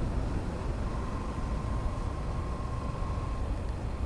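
Steady low rumble of a motorcycle being ridden, engine and wind noise together, with a faint thin steady whine in the background.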